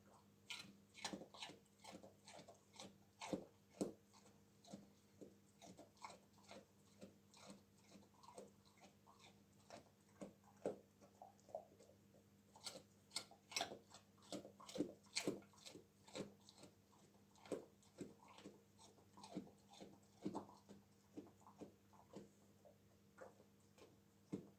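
A dog crunching and chewing raw carrots, with sharp, irregular crunches about one or two a second.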